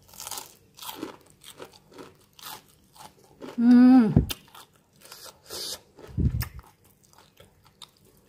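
Crunching bites and chewing of a crispy breadcrumb-coated fried chicken nugget, a run of short crackly crunches. About four seconds in, a brief voiced sound falling in pitch is the loudest moment.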